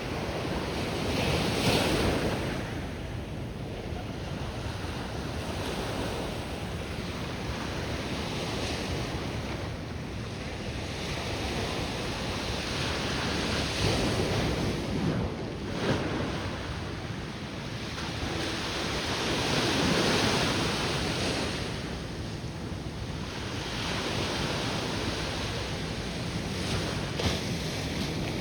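Ocean surf breaking and washing in, a steady rushing hiss that swells and eases in slow surges every several seconds, with wind buffeting the microphone.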